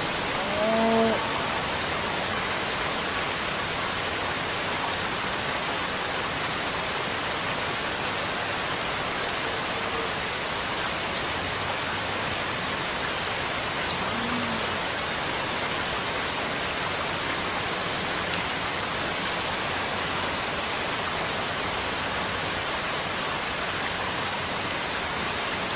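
Steady rainfall, an even hiss with the odd faint drop tick. About a second in, a short low pitched call sounds over the rain, with a fainter one near the middle.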